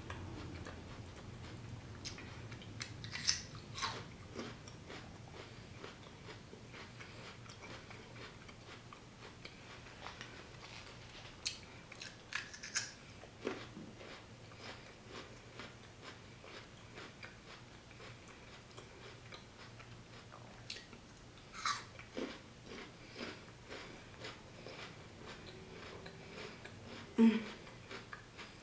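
Close-up chewing of crunchy raw jicama fries: a steady run of fine crunching clicks with a few sharper, louder crunches. The loudest is a bite near the end.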